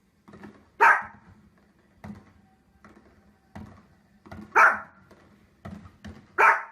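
A dog barking: three loud, sharp barks spaced about two seconds apart, with softer short sounds in between.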